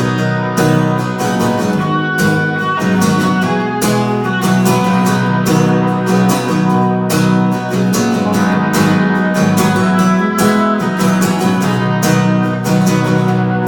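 Instrumental passage of live music led by a strummed guitar, played in a steady rhythm with no singing.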